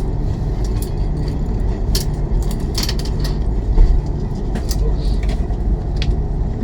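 Steady low rumble of a CR400BF-Z Fuxing high-speed train running on the line, heard inside the passenger car, with scattered small clicks and ticks and one louder knock about four seconds in.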